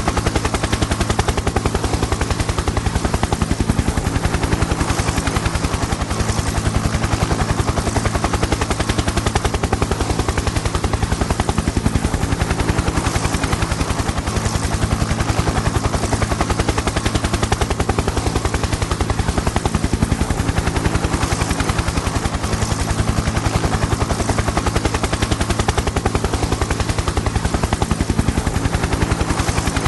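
Helicopter in flight: a steady, rapid rotor-blade chop over a constant turbine drone.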